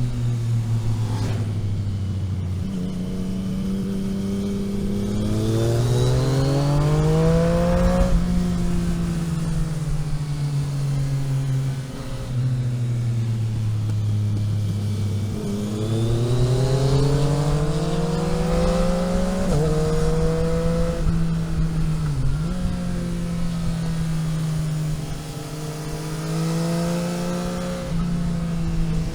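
Vehicle engine heard onboard while driving a winding road: the revs climb twice, each climb ending in a sudden drop as it shifts up, then hold fairly steady with a brief dip near the end.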